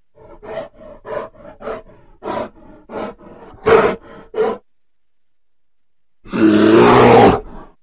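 Bear vocalising: a run of about ten short grunts over the first four and a half seconds, then one loud roar lasting about a second near the end.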